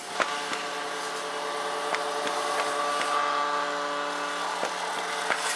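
A steady mechanical hum at one constant pitch, with a few light clicks and taps over it.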